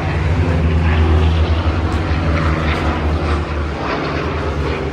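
Propeller aircraft engine droning steadily, loudest about a second in and easing slightly after.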